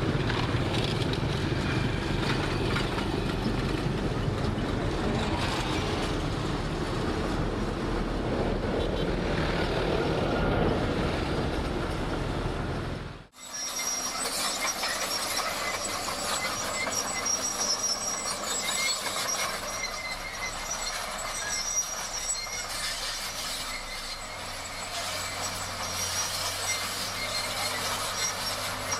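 Heavy earthmoving machinery at work. A deep, steady engine sound cuts off abruptly about halfway through and gives way to a lighter mechanical sound with thin, high-pitched metallic squealing.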